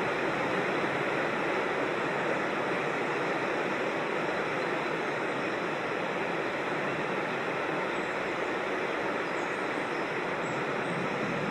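Creek water rushing steadily over rocks, an even unbroken rush of noise. A few faint high chirps come in near the end.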